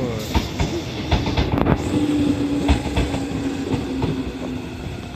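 Meitetsu 6000 series electric train rolling past close by as it pulls into the station, its wheels clacking over the rail joints. A steady low whine runs through the middle.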